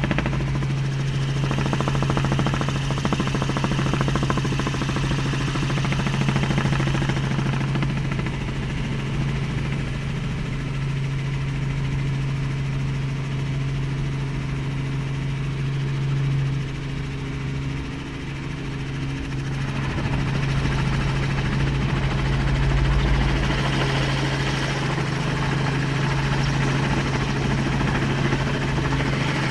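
An engine running steadily, with a constant low hum and a noisy drone over it; the drone eases off for a while in the middle and picks up again.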